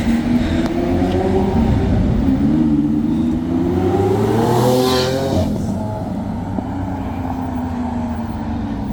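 Lamborghini Aventador's V12 accelerating hard past, its engine note rising through the revs with a short dip at a gear change about two seconds in. It peaks as the car passes about five seconds in, then falls away as it drives off.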